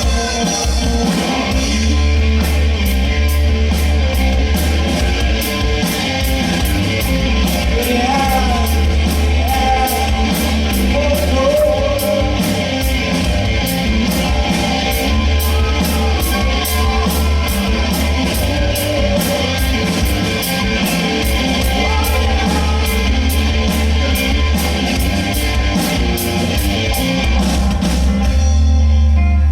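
Live rock band playing with a singer, over heavy bass and drums with a fast steady cymbal beat. The cymbal beat drops out shortly before the end while the bass carries on.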